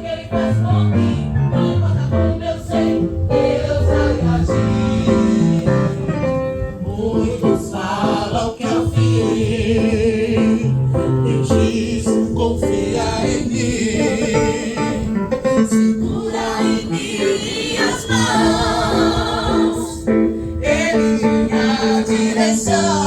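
Gospel choir singing with a live band, bass and guitar accompaniment, a Portuguese-language praise song.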